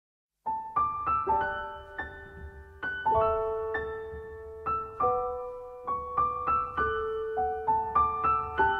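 Background piano music: a gentle melody of struck notes that ring and fade, starting about half a second in.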